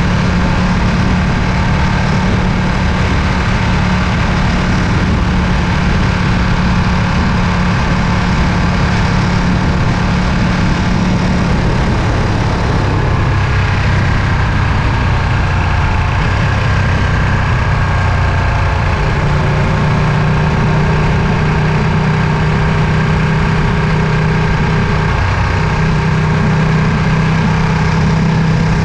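Ducati Panigale V2's 955 cc V-twin engine and exhaust running at a steady speed. The engine note drops a little in pitch about two-thirds of the way through, then holds steady.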